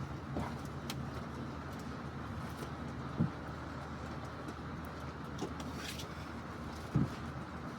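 Steady low rumble of a vehicle, with a few soft knocks: one just after the start, one after about three seconds, and one near the end.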